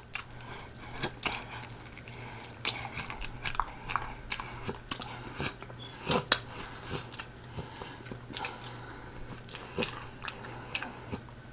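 A person chewing food, with irregular short mouth clicks several times a second; the loudest comes about six seconds in.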